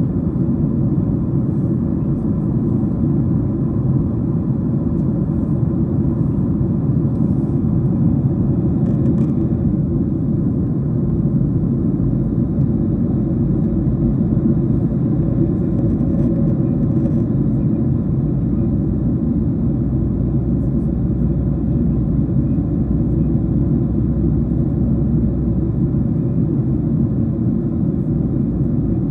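Steady low rumble of engine and airflow noise inside the passenger cabin of a Boeing 737-700 airliner.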